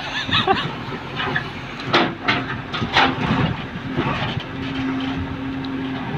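Excavator at work digging a footing trench: its diesel engine runs steadily while the bucket scrapes through soil and rubble with several sharp knocks and clanks.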